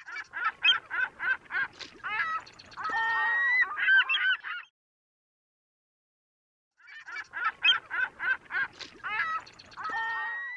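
Bird calls: a quick run of short, pitched calls, about five a second, then a few longer calls. The same clip plays twice, with about two seconds of silence between.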